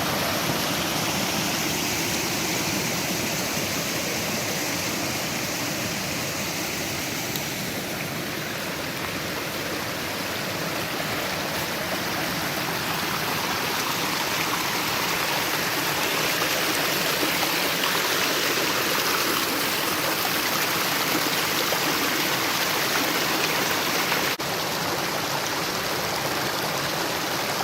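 A small forest stream in full spring snowmelt runoff, rushing steadily and loudly over rocks in its bed.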